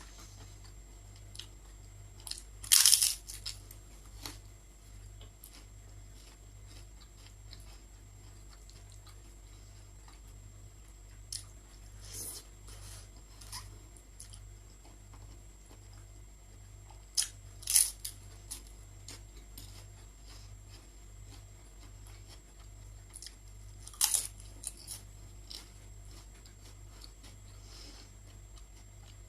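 Close-miked eating with loud crunchy bites of crisp food, most likely prawn chips. There are four loud crunches about 3, 12, 18 and 24 seconds in, with soft chewing clicks between them.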